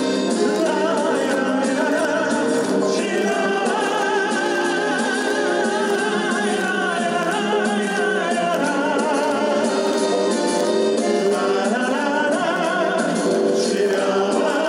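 A song: voices singing held notes with vibrato over instrumental accompaniment.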